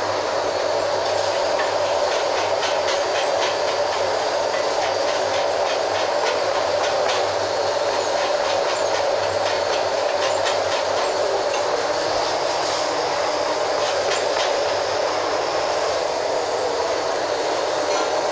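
Steady running noise of a train, with a stream of fast light clicks over it.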